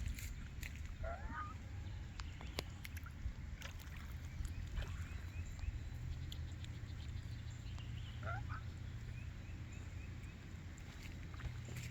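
Two short calls from domestic waterfowl, one about a second in and one about eight seconds in. They sound over a steady low background rumble with scattered small clicks.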